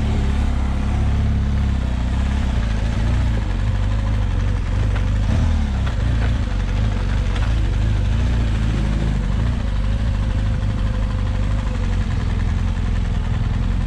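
Motorcycle engine running at low, steady revs as the bike rolls slowly along, its pitch rising and falling slightly.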